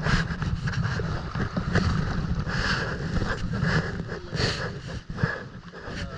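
Wind buffeting the microphone out on open water, with water splashing about once a second.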